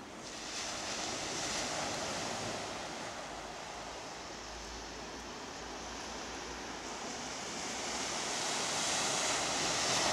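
Sea surf breaking on the shore, a steady wash of noise that swells about a second in and again near the end as waves come in.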